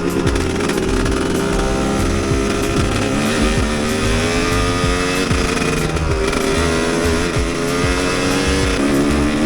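Enduro motorcycle engine running, its pitch rising and falling as the throttle is worked.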